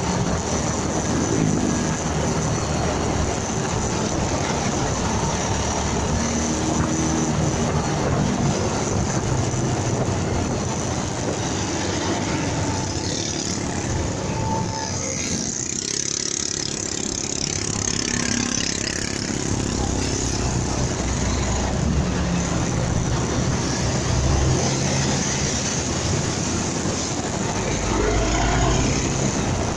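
Motorcycle engine running while riding, mixed with steady wind and road noise on the dashcam's microphone.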